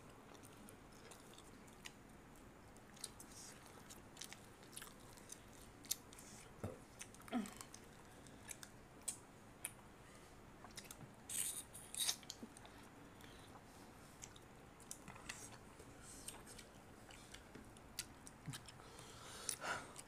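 Faint, scattered wet clicks and smacks of people chewing mutton and roti with their mouths. The mutton is tough, gone rubbery in the mouth.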